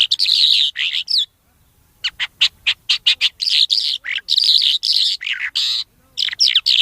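A thor ghoora bird singing a fast, varied song of chirps and warbled phrases, with a quick run of about six short, sharp notes about two seconds in.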